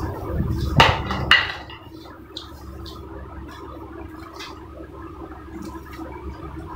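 Chewing and mouth sounds of a man eating mutton biryani by hand, with two sharp, louder sounds about a second in, then quieter, steadier chewing with small clicks.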